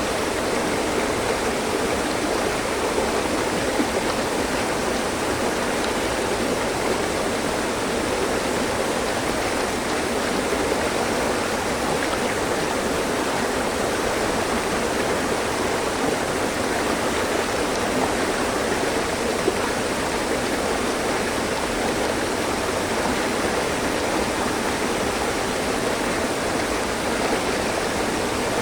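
Mountain stream flowing over rocks, a steady, even rush of water with no breaks.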